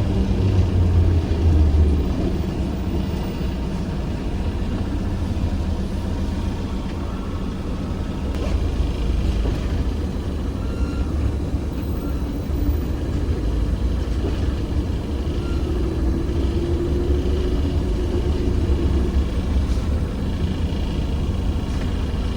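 ZiU-682G trolleybus in motion, heard on board: a steady low rumble of the running gear and road, with a faint whine that rises and falls partway through.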